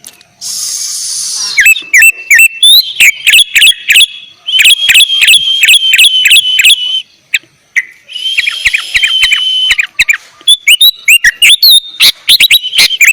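Sooty-headed bulbul (kutilang) singing loud, rapid whistled phrases and two long fast trills, with short pauses between them. A brief harsh, hissy note comes at the start.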